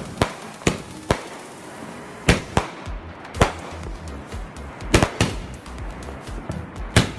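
Diwali firecrackers going off in about nine sharp, irregularly spaced bangs, over background music with a low bass line.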